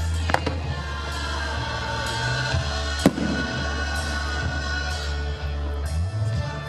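Music with a steady heavy bass, over which fireworks go off: a sharp bang about a third of a second in, a louder one about three seconds in, and fainter pops between.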